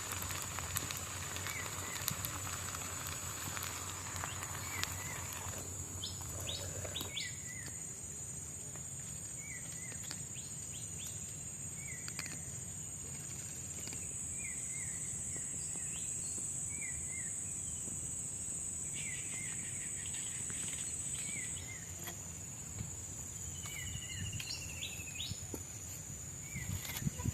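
Tropical forest ambience: a steady high-pitched insect drone, louder for several seconds around the middle, with a bird repeating a short rising chirp about every two seconds.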